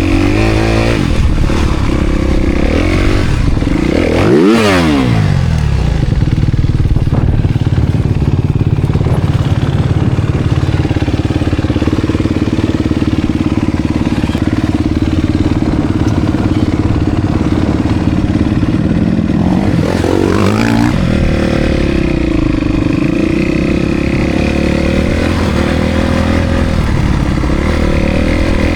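Honda CRF250R single-cylinder four-stroke motocross engine running loud under riding load. The revs drop sharply and then climb about four seconds in, and the pitch shifts again around twenty seconds in.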